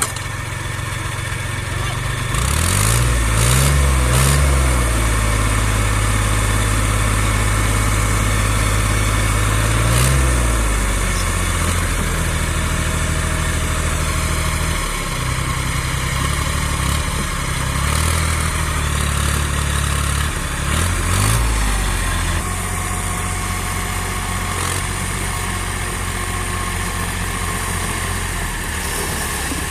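Heavy diesel engine running, its revs rising and falling several times, loudest about three seconds in.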